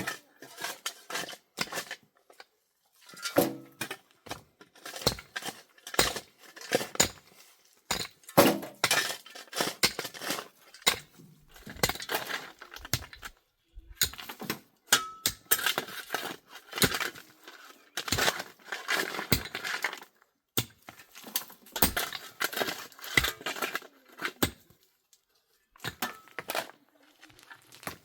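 Pots, dishes and utensils being handled, with irregular clinks, knocks and scrapes and a few short pauses.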